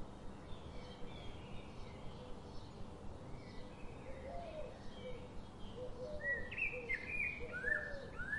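Small birds chirping, with repeated short high calls and lower arched notes that grow louder and busier in the last few seconds.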